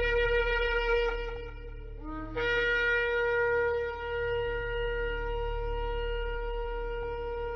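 Shofar blown in long held notes. One blast tails off about two seconds in, and the next starts with a short upward slide before settling into a long steady note.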